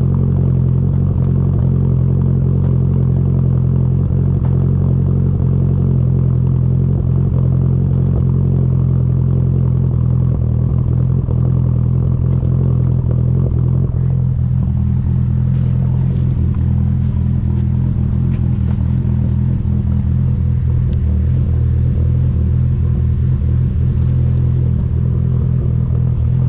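Nissan 240SX's SR20DET turbocharged inline-four idling steadily through a newly completed exhaust with an ISR high-flow catalytic converter. The upper part of the sound thins out about halfway through.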